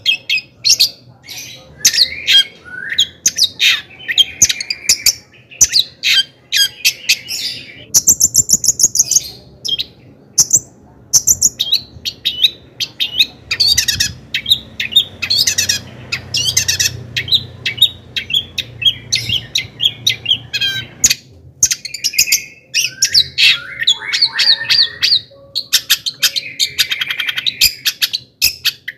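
Long-tailed shrike singing without pause: a fast, varied run of sharp chirps, harsh notes and quick trills.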